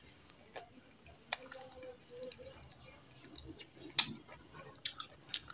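Close-miked eating sounds of a man chewing a mouthful of curry and rice: wet smacks and clicks, loudest as a single sharp smack about four seconds in.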